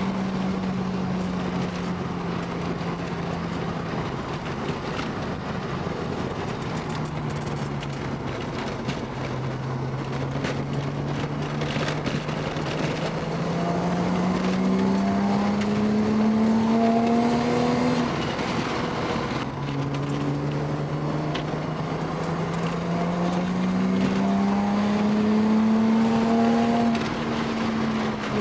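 Car engine under way, its note steady at first, then rising slowly in two long climbs. The note drops between the climbs with a gear change.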